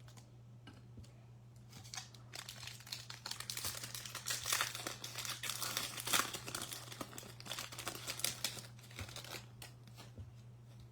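Baseball card pack wrapper being torn open and crinkled by hand: dense crackling starting about two seconds in, loudest in the middle and dying away near the end, over a steady low electrical hum.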